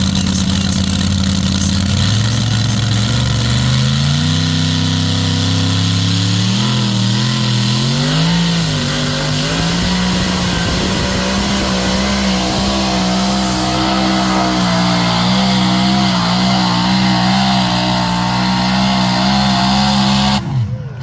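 A pulling tractor's engine under load, climbing in pitch in several steps over the first ten seconds and then holding steady at high revs.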